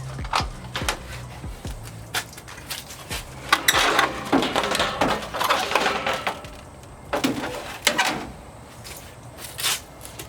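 Plastic clips and trim on a truck's front end clicking, scraping and rattling as they are pried and worked loose by hand, in irregular bursts with the busiest stretch about three and a half to six and a half seconds in.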